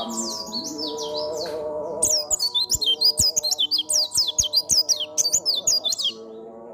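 White-eye (pleci) singing a rapid twittering song of high, quickly falling notes. It grows louder and denser about two seconds in and drops away near the end.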